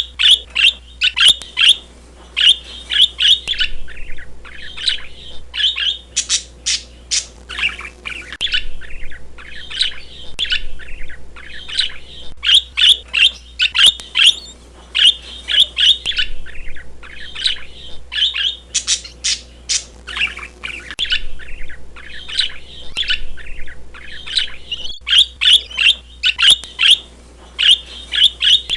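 Birds chirping and squawking without a break: quick runs of short, high calls with sharp clicky notes, over a faint steady hum.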